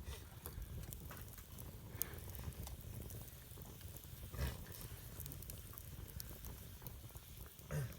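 Wood campfire crackling with scattered small pops over a low rumble, and two louder cracks, about halfway through and near the end.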